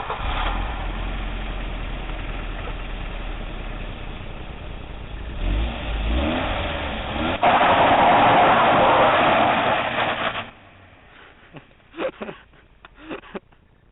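Volvo 940's engine running while the car is driven and slid, with the revs rising about halfway through and a louder stretch of several seconds before the sound drops away near the end.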